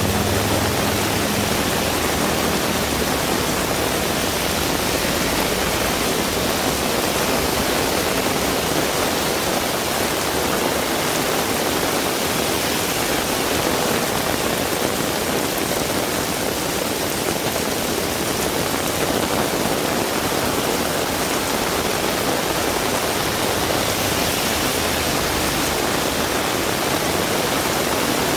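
Heavy rain pouring steadily, a dense, even hiss. A low rumble dies away about a second in.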